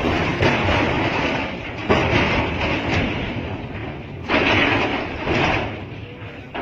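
Big sea waves crashing and strong wind blowing in rough weather, rising in sudden loud surges four times and easing between them.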